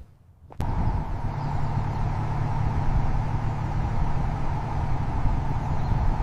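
1952 Ford F-1 pickup's engine coming in suddenly about half a second in, then running steadily with a low, even hum.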